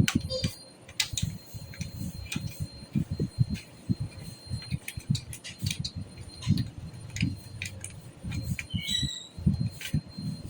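Irregular light clicks, taps and dull low knocks of hands handling a desktop PC's metal case and components during assembly.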